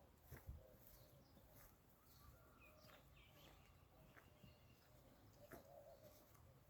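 Near silence, with faint scattered bird calls and a faint warbling call about five and a half seconds in.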